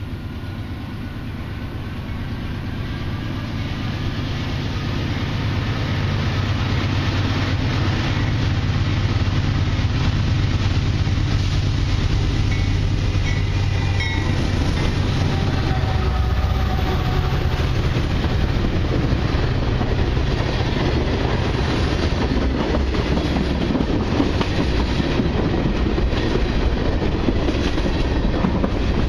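A long freight train passing at close range. The lead diesel locomotives' engine drone swells over the first few seconds, then gives way to the steady rumble and clatter of freight cars and autoracks rolling over the rails.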